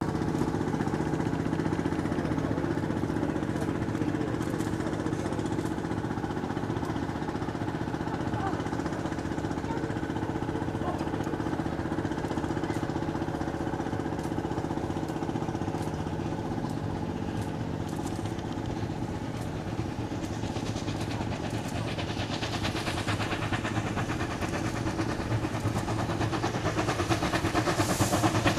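An engine running steadily, growing louder over the last several seconds with a fast, even beat.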